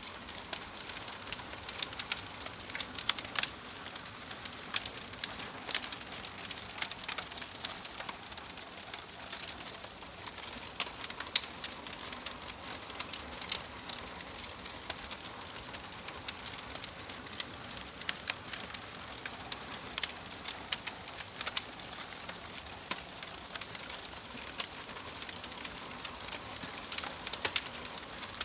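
Wood fire in a fireplace crackling: a steady soft hiss with frequent sharp, irregular pops and snaps.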